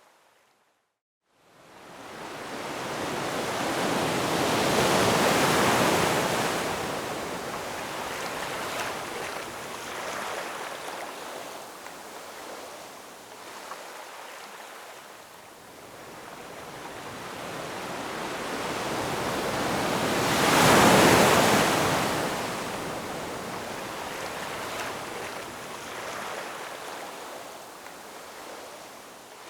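Ocean waves breaking and washing up the shore, the surf rising and falling, with two big waves crashing about 5 and 21 seconds in. It opens with a second or so of dead silence before the surf fades in.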